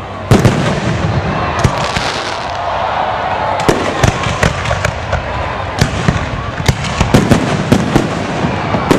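Fireworks display: aerial shells bursting, with a loud bang about a third of a second in and then a steady run of sharp bangs and cracks. Crowd voices carry underneath.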